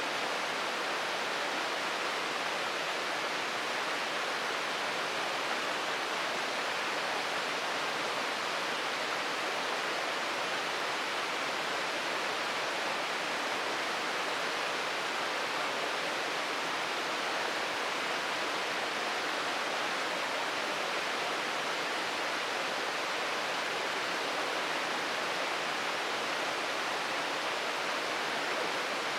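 Shirogane Falls, a waterfall, rushing steadily: an even wash of falling water with no breaks or changes.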